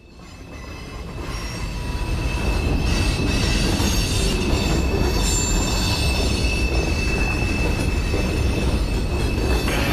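Freight train rolling past: a steady rumble of the cars with a steady high squeal of steel wheels on the rail. It fades in from silence over the first two seconds.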